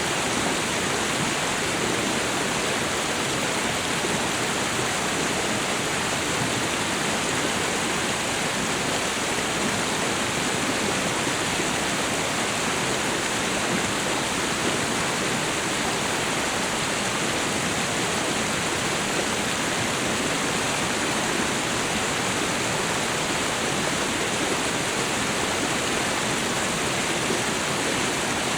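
Waterfall and river water rushing in a steady, unbroken wash of noise.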